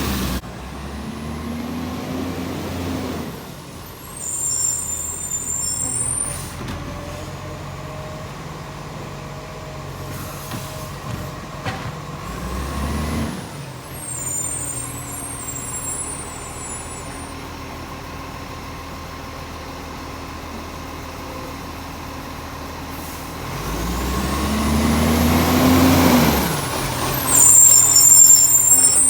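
Side-loading garbage truck working its hydraulic bin-lifting arm: the diesel engine revs up and falls back three times as the arm lifts, each rev followed by a short hiss of air from the brakes, over the engine running steadily between.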